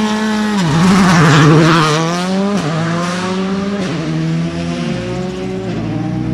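Rally car engine running with the revs blipped: the note drops sharply under a second in, wavers, then climbs slowly over several seconds, with a few short dips along the way.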